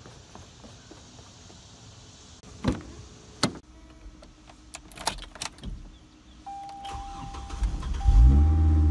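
Two thumps, then keys clicking and jangling at the ignition and a steady electronic chime tone. Near the end a car engine cranks briefly and catches, starting loudly.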